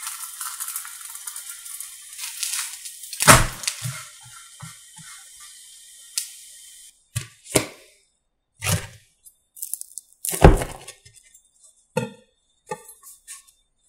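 Green onion pancake sizzling in oil in a nonstick frying pan, with a loud knock of the spatula about three seconds in. After about seven seconds the sizzle stops and a run of separate crisp cracks and knocks follows as the fried pancake is cut on a wooden cutting board.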